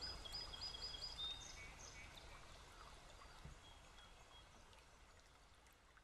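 A bird singing a quick run of short, high chirps, about four a second, in the first second or so, with a few scattered high notes after, over a soft outdoor hiss. Everything fades out toward the end.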